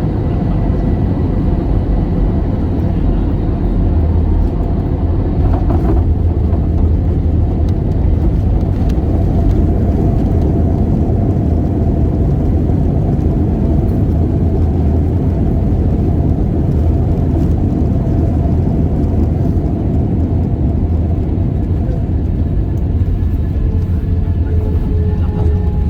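Airliner cabin noise in flight: a steady, loud low drone of the jet engines and airflow, with faint steady whining tones over it.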